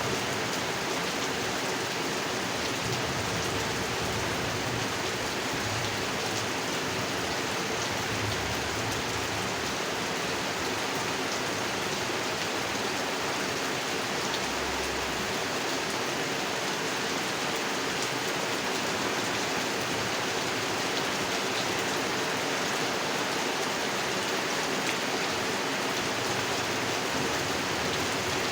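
Steady rain falling on a pond and its surroundings, an even patter and hiss with no let-up.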